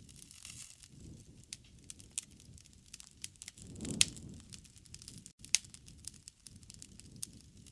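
Wood campfire crackling: scattered sharp pops and snaps over a low rush of flame. The two loudest pops come about four and five and a half seconds in.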